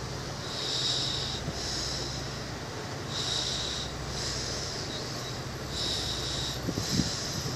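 Irish Rail intercity train coaches rolling slowly past the platform: a steady low hum with a hiss that comes and goes about once a second, and a few knocks near the end.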